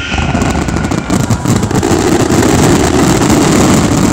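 Fireworks finale barrage: many shells and ground mines going off in quick succession, the reports merging into a continuous loud rumble with rapid crackling. It grows louder about halfway through.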